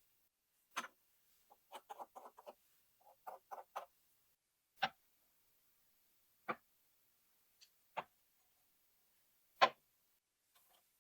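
Light clicks and taps, several in quick succession over the first few seconds, then four single sharper knocks about a second and a half apart, the last the loudest.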